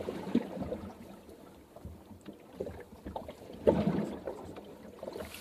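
Scattered soft clicks and rustling, with one louder knock a little past halfway.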